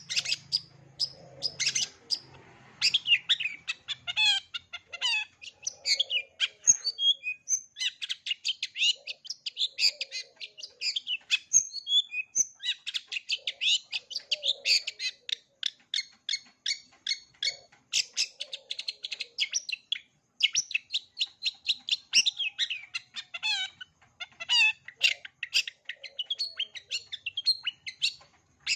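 Long-tailed shrike singing a fast, varied song of rapid high chattering and twittering notes, several a second, broken by a few short pauses.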